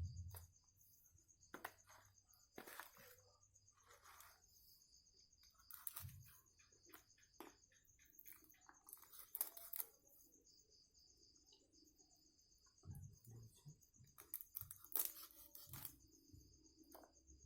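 Faint night insects, crickets, trilling steadily at a high pitch, with scattered soft rustles and clicks, loudest about 15 seconds in.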